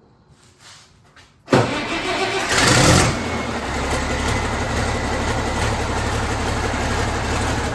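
Turbocharged diesel tractor engine, just fitted with a new turbocharger, catching suddenly about a second and a half in, flaring up briefly, then settling into a steady run.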